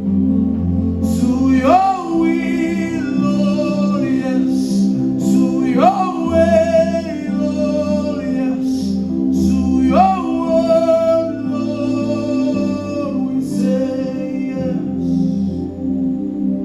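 Gospel worship song: sung vocal phrases over a held instrumental backing. A new phrase starts with a rising scoop in pitch about every four seconds.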